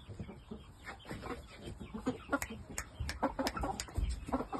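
Young Ko-shamo game chickens clucking in their pen, with a quick run of sharp clicks about two and a half to four seconds in.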